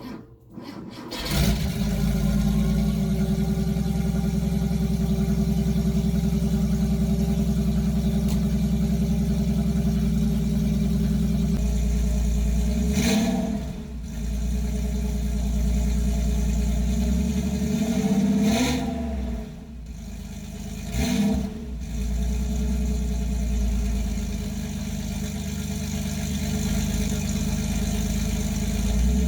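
1989 Porsche 911 Carrera's air-cooled 3.2-litre flat-six on a cold start through a SCART Riva muffler with the catalytic converter bypassed. It fires about a second in and settles into a steady idle. Three short throttle blips come later, two close together near the end.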